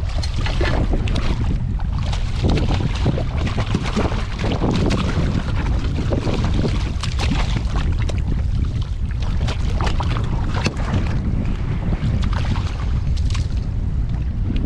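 Strong wind buffeting the microphone: a steady heavy low rumble with irregular crackles throughout.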